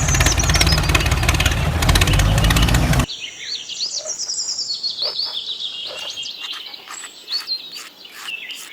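A loud, dense sound cuts off suddenly about three seconds in. It leaves small birds chirping: many short, quick calls that slide up and down in pitch.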